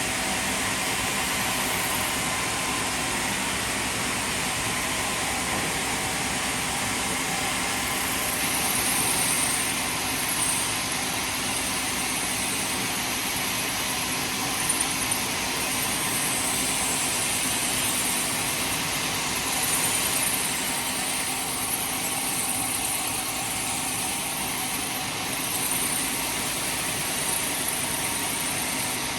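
Heavy machinery running steadily, with a high hiss that swells and fades several times and a couple of short clicks about halfway through.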